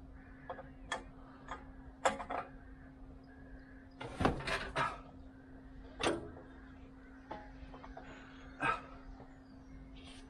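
Scattered knocks and clanks of metal and tools being worked by hand, a handful of separate hits with the biggest about four seconds in, over a steady low hum.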